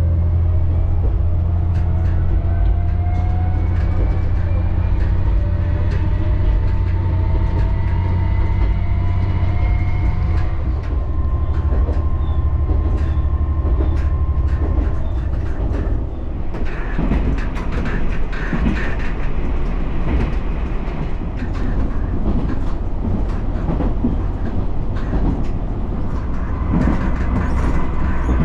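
Nagaragawa Railway diesel railcar running, with a rising whine for about the first ten seconds as it gathers speed, then steadier running with the wheels clicking over rail joints.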